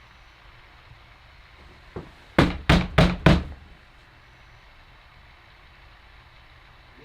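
Fist knocking on a locked door: one light knock, then four quick loud knocks, about three a second.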